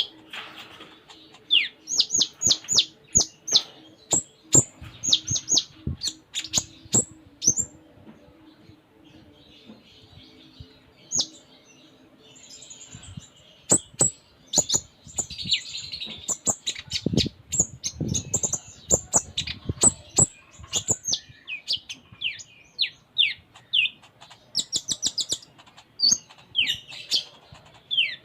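Konin (kolibri ninja sunbird) singing hard in full voice: quick strings of thin, high chirps that sweep downward, with a short lull in the middle. About two-thirds of the way through, a cluster of sharp knocks sounds among the chirps.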